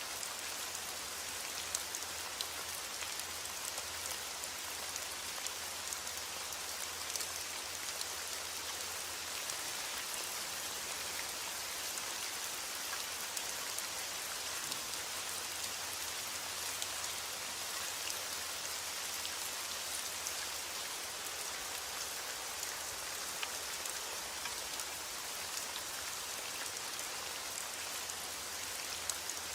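Steady rain falling on a surface, an even hiss with scattered individual drop ticks. No thunder is heard.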